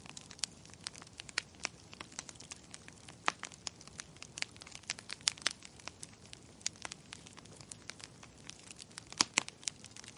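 Wood fire burning in a fireplace, with irregular sharp crackles and pops over a faint steady hiss; a few louder pops about a third of the way in, around the middle and near the end.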